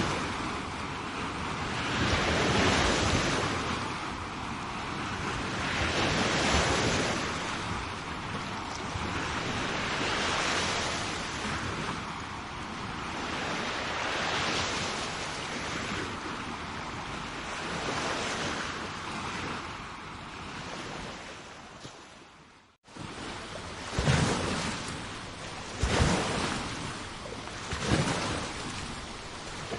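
Sea waves washing onto a shore, swelling and ebbing about every four seconds, with wind buffeting the microphone. About three-quarters through, the sound dips out briefly and comes back with sharper slaps of water about every two seconds.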